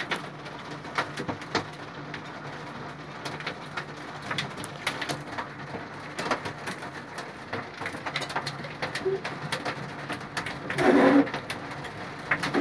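Pigeons cooing, with one louder coo about eleven seconds in, over many irregular sharp taps.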